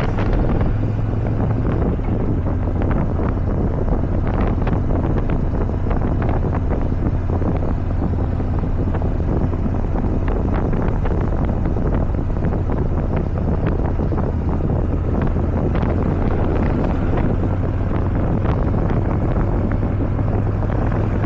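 Kawasaki motorcycle at a steady cruise: the engine's even low drone under heavy wind rushing and buffeting on the microphone.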